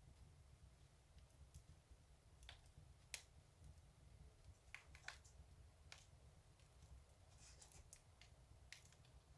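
Fireplace fire crackling faintly: scattered sharp pops and ticks, the sharpest about three seconds in, over a low steady rumble.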